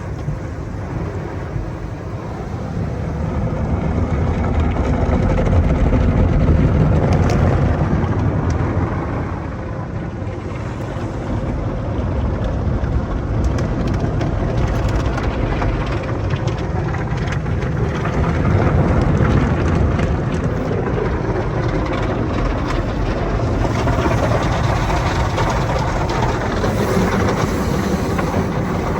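Belanger tunnel car wash equipment running: a steady, low-heavy rushing of the wash machinery and water that swells louder twice, with faint scattered clicks.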